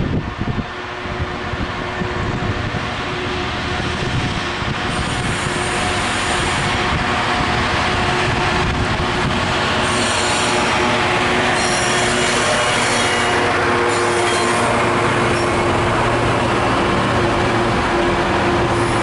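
Freightliner Class 66 diesel locomotive's two-stroke V12 engine and a loaded container train approaching and passing, the rumble of engine and wheels on rail growing steadily louder. Short high squeals come and go as it nears.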